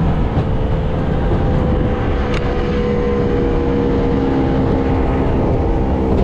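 Outboard motor running steadily at speed under a rush of wind and water; the motor is out of limp mode and running normally again.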